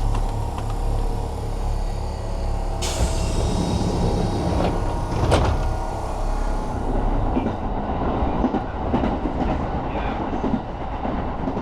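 Kintetsu Suzuka Line electric train running, with a steady motor hum and wheels clacking over rail joints, and two sharp knocks about three and five seconds in.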